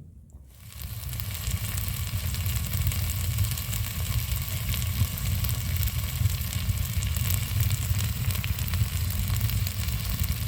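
A steady, dense hiss full of fine crackles over a low rumble, starting about half a second in.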